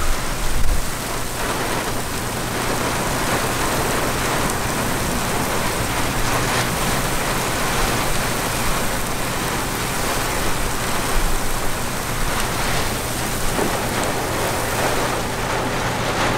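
Heavy rain pouring down from a tornadic thunderstorm, a dense, steady hiss, with a few low thumps near the start.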